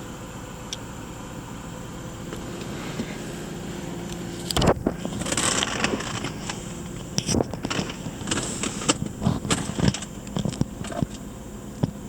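1999 Jaguar XJ8's V8 engine idling steadily after a cold start. About four and a half seconds in, a loud knock begins a run of irregular clicks, knocks and rustling over it.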